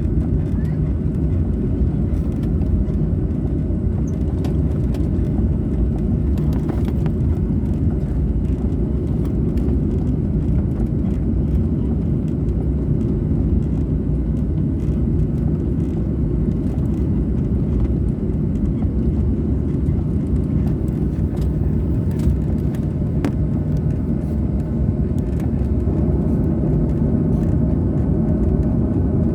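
Steady airliner cabin noise: the jet engines and airflow heard from inside the cabin as a constant low rumble with a faint steady hum above it, the level barely changing.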